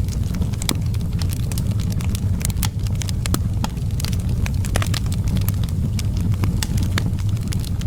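Outdoor wood fire crackling: many sharp, irregular pops and snaps over a steady low rumble of the flames.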